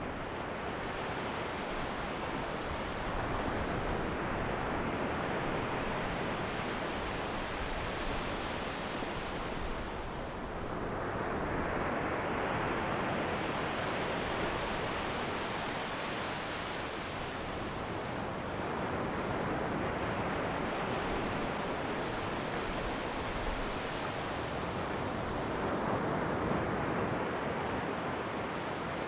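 Ocean waves breaking and washing up the shore, a new surge of surf rushing in about every eight seconds.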